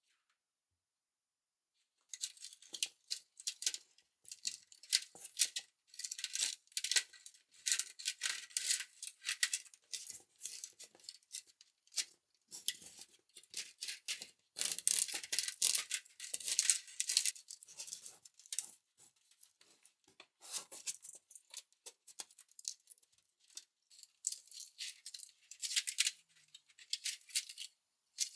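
Irregular rattling and scratchy clicking of small hard objects being handled, starting about two seconds in and running in uneven clusters.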